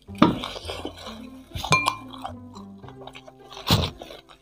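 Crunchy bites and chewing of crispy fried chicken feet in hot sauce, with a short ringing clink near the middle, over background music.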